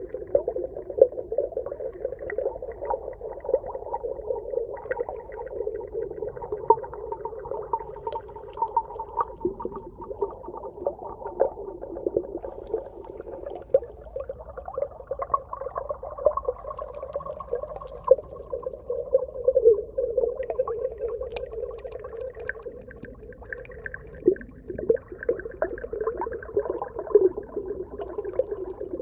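Underwater ambience: a low, wavering moan-like tone with frequent small clicks and pops throughout, sounding muffled with little high end.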